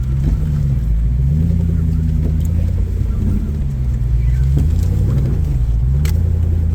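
Off-road rock crawler's engine running under load at crawling speed, its pitch rising and falling several times as the throttle is worked over a rock. A sharp click sounds near the end.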